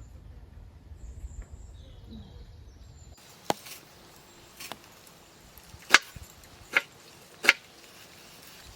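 Five sharp chopping blows on wood at uneven intervals, the last three the loudest. Before them a low rumble cuts off suddenly about three seconds in.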